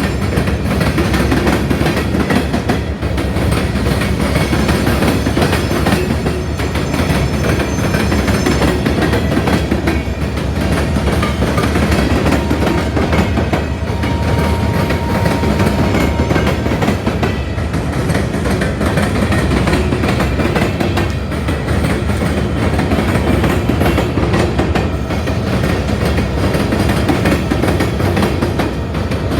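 Coal train's cars rolling past steadily, their wheels clacking over rail joints.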